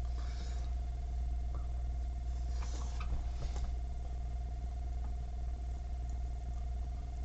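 A steady low hum with a thin steady tone above it. A few soft clicks and rustles come about two and a half to three and a half seconds in.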